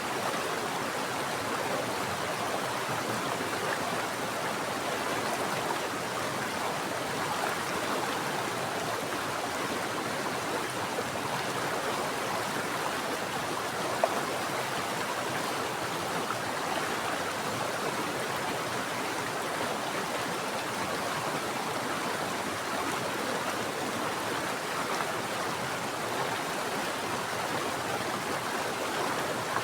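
Mountain stream flowing steadily, an even rush of running water with no change in level. One brief click near the middle.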